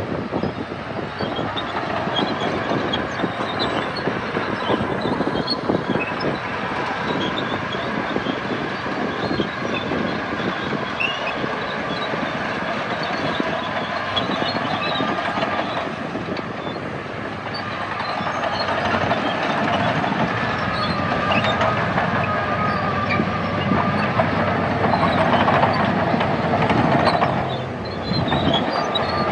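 Crawler bulldozer at work: its diesel engine running steadily with a continuous clanking clatter of the steel tracks, briefly dropping in level near the end.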